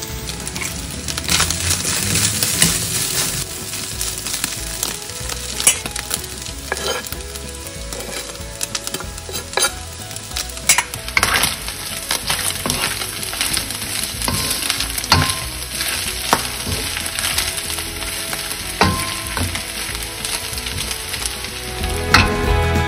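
Shredded chicken sizzling in melting butter in a nonstick wok, stirred and tossed with a wooden spatula that knocks and scrapes against the pan every few seconds.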